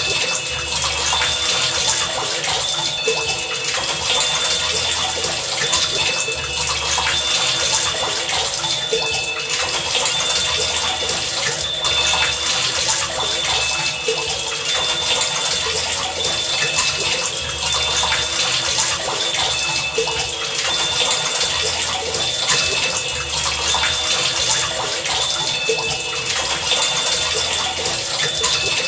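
Heavy rain falling steadily, with short high pitched pings recurring throughout and a low pulse repeating every second or two.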